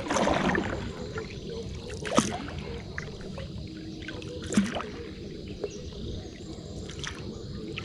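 Water splashing: a longer splash at the start, then three short, sharp splashes about two and a half seconds apart.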